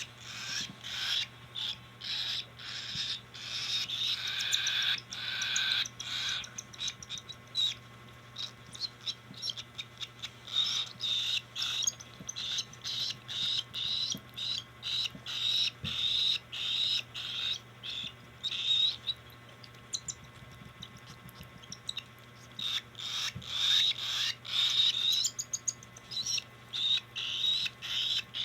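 Cockatiel chicks giving rapid, repeated raspy begging calls while being hand-fed, several calls a second, easing off briefly around two-thirds of the way through.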